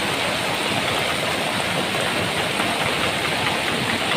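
Steady rush of fast-flowing floodwater, an even roar of water noise without pause.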